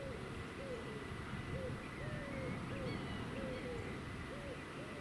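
An animal, most likely a bird, calling in a quick run of short hoots that rise and fall, about two a second, with a few faint higher bird chirps over a steady low rumble.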